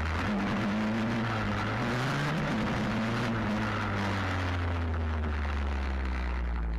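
Stomp WPB 125 pit bike's single-cylinder four-stroke engine running under way; its revs rise about two seconds in and then hold steady.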